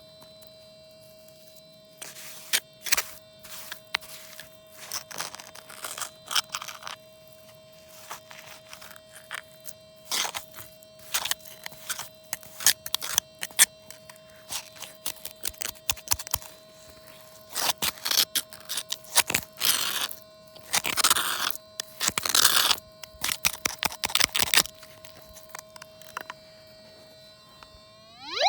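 Irregular scraping and crunching in short bursts, some bursts longer, over a faint steady tone.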